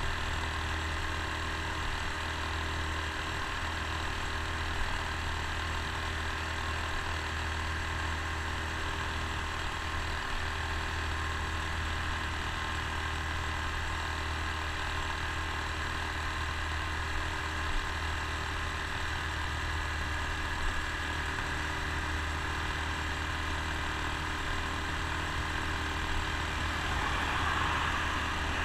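Honda Super Cub C125's 125 cc air-cooled single-cylinder engine running steadily at cruising speed, with heavy wind and road rush on a handlebar-mounted camera. A passing car swells briefly near the end.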